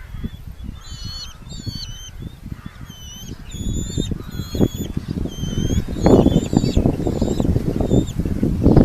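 Red-footed falcons calling at the nest: many short, high, slurred notes in quick succession, overlapping. They sit over a low rumbling noise that builds and grows loud in the second half.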